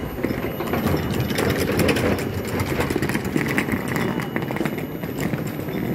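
Steady mechanical running of a standing passenger train, with many small clicks of footsteps on the platform over it.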